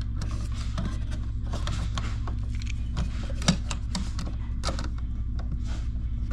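Scattered small clicks and taps of a wall receptacle's cover plate being handled and fitted, one sharper tap about three and a half seconds in, over a steady low hum.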